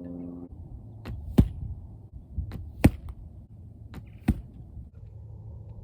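A 40-pound Martin recurve bow shooting three arrows at a target. Each shot is a faint snap of the released string, then a sharp smack as the arrow strikes, with the strikes about a second and a half apart. A low steady hum sits underneath.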